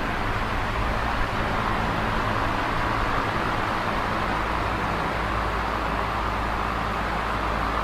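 Large box fan running steadily: a continuous even rush of air with a low hum beneath it.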